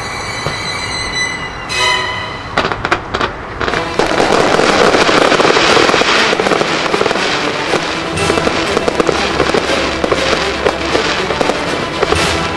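Fireworks going off: a few sharp bangs, then dense crackling from about four seconds in, with music playing alongside.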